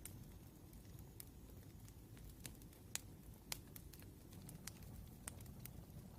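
Wood fire crackling: scattered sharp pops at irregular intervals over a faint low rumble.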